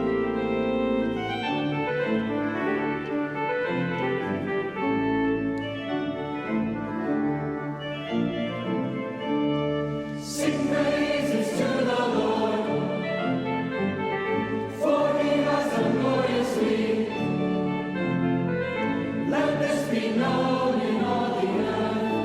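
Youth choir singing a sacred anthem with keyboard accompaniment. The accompaniment carries the first half alone in held chords, and the choir's voices come in about halfway through with crisp consonants.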